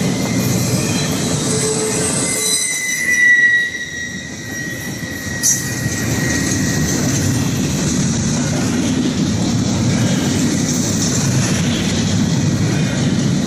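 Norfolk Southern freight train's cars rolling past with a steady rumble of steel wheels on rail. About three seconds in, the wheels give a high squeal for a second or two. A sharp click follows a couple of seconds later.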